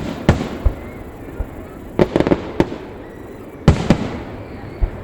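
Aerial fireworks exploding in a display: a series of sharp bangs, with a quick cluster of several about two seconds in and a loud one near four seconds, each trailing off in a short rumble.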